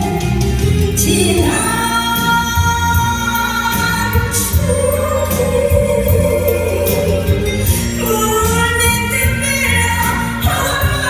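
A woman singing a slow ballad in long held notes over a full band backing with a steady bass.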